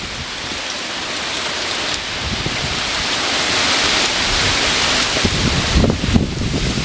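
Hurricane wind and driving rain: a loud, steady rush that swells through the middle, with a few low buffets of wind on the microphone about six seconds in.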